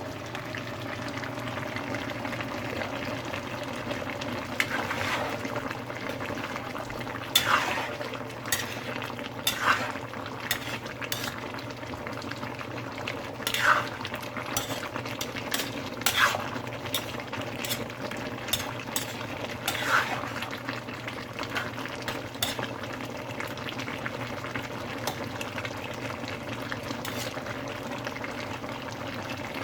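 A spoon stirring chicken curry in a cooking pot, clinking and scraping against the pot now and then over a steady simmering background.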